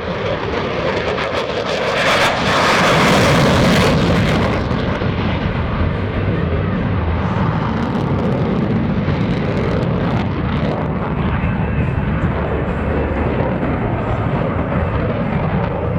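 Block 30 F-16C Fighting Falcon's GE F110 turbofan at full takeoff power: a loud jet roar that swells to its loudest, with a crackle, about two to four seconds in, then holds a steady lower rumble as the jet climbs away.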